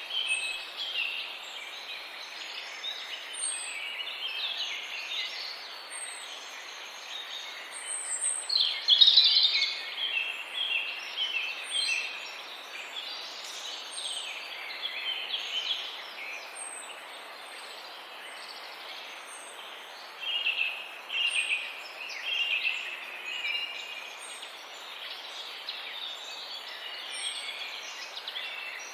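A chorus of birds calling: many short overlapping calls, louder for a moment about nine seconds in, with a thin high chirp repeating every second or two.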